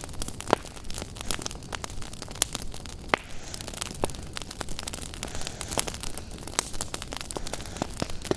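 Wood fire crackling in a fireplace: frequent sharp pops and snaps at irregular intervals over a soft steady hiss, with two louder pops, about half a second in and about three seconds in.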